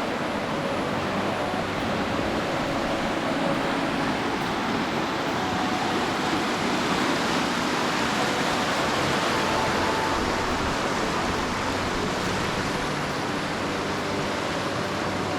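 Steinsdalsfossen waterfall's falling water making a steady, unbroken rush.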